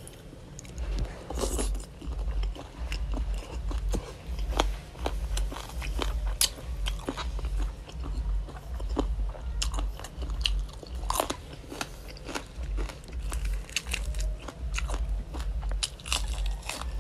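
Close-miked eating of a spicy chicken feet salad with fresh lettuce: wet chewing with many irregular crunches and bites.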